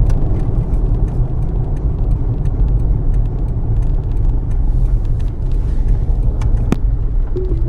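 Steady low rumble of a car driving, engine and road noise heard from inside the cabin, with one sharp click near the end.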